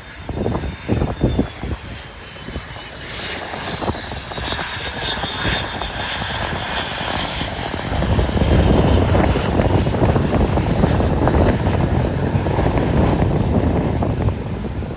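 Jet airliner passing close by: its engines' high whine slides down in pitch, then a heavy low rumble takes over about eight seconds in. Gusty wind buffets the microphone at the start.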